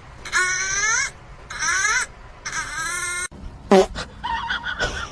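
A pet animal's three drawn-out wailing cries, each rising then falling in pitch, followed by a short sharp cry and a run of quicker, shorter calls near the end.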